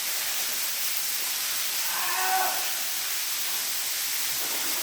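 Waterfall pouring steadily, with a person's short drawn-out vocal cry about two seconds in.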